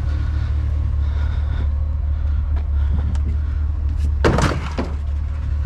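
Debris being handled in a dumpster: a few light knocks, then a loud rustling clatter about four seconds in, over a steady low rumble.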